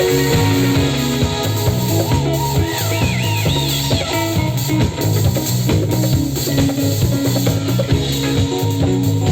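A live trance band playing: a drum kit keeps a steady beat under a bass line, with guitar and keyboards, and a wavering high lead line a few seconds in.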